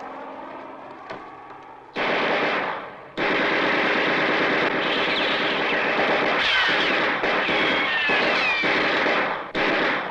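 Machine-gun fire: a short loud burst about two seconds in, then near-continuous firing for about six seconds with a few brief falling whines in it, and a last short burst near the end.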